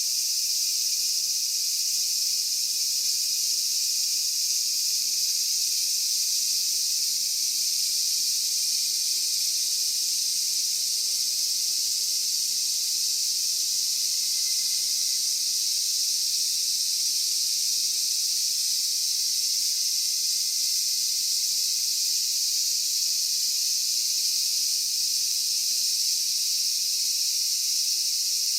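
Steady, high-pitched insect chorus: a constant hiss that never pauses or changes.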